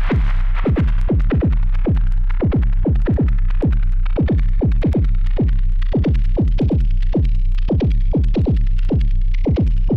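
Erica Synths Perkons HD-01 drum synthesizer playing an electronic pattern: a fast, even run of synthesized drum hits, each sweeping down in pitch, several a second, over a steady deep bass tone.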